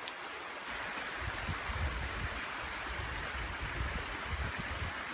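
Steady rushing outdoor noise that grows louder about a second in, with uneven low rumbling underneath.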